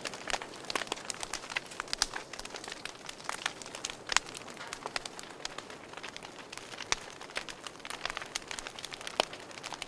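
Wood fire crackling in a fireplace: irregular sharp pops and snaps, several a second, over a soft steady hiss, with a few louder pops about two, four and seven seconds in.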